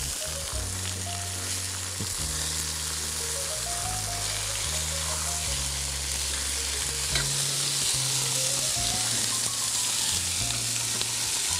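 Chicken breasts searing in a hot frying pan, a steady sizzle. They are being browned on both sides without being cooked through.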